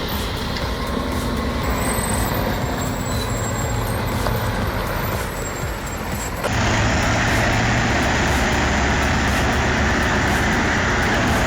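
Heavy truck engine running, with an abrupt switch about six and a half seconds in to a louder engine sound.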